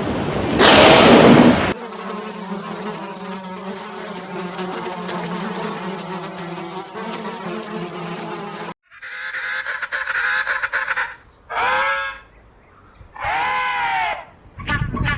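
A loud noisy burst, then a steady insect buzz for about seven seconds that cuts off suddenly, followed by a run of short animal calls with arching pitch.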